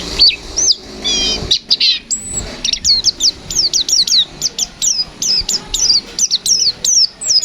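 Pleci (white-eye) singing: a short warbled twitter, then from about two seconds in a fast, even run of sharp, high, down-slurred whistled notes, several a second. This is the rapid 'nembak' (shooting) delivery of a vigorous pleci.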